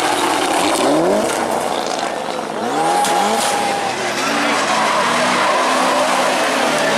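Rally car engine accelerating hard, its pitch rising in two quick upward sweeps through the gears and then holding steadier, with tyre and skidding noise throughout.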